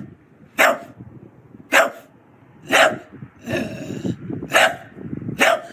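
A dog barking repeatedly, about one bark a second, six barks in all.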